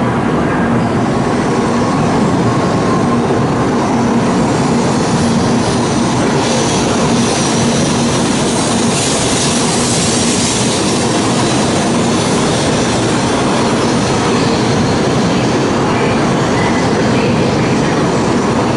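Tokaido Shinkansen bullet train running into the station, a steady loud rumble of wheels on rail with a low tone early on. The high hiss gets brighter about nine to eleven seconds in.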